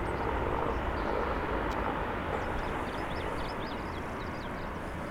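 Jet airliner engines, a steady rush that slowly fades. Faint high chirps of small birds come in around the middle.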